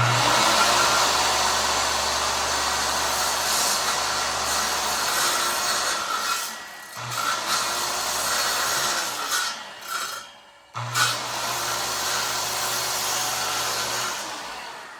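RIDGID circular saw starting suddenly and cutting through a wooden barn door with a steady motor hum. It stops briefly about ten seconds in, starts again, and winds down near the end.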